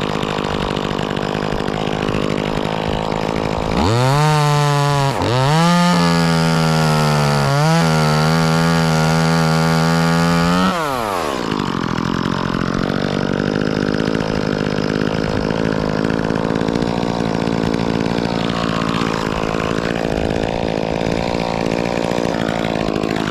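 Two-stroke chainsaw idling, then revved to full throttle for about seven seconds, with two short dips in engine speed that fit the saw taking a cut through an oak limb, before dropping back to idle.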